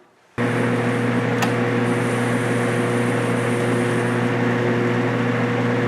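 Metal lathe running under power with a steady motor hum, coming in suddenly about half a second in, while a high-speed-steel shear tool takes a very light cut in mild steel. One sharp click a second later, and a faint thin high tone for a couple of seconds in the middle.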